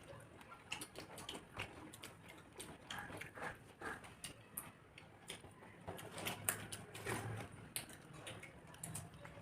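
Quiet eating sounds: irregular small clicks and wet smacks of chewing and handling soft khichuri, several times a second with no steady rhythm.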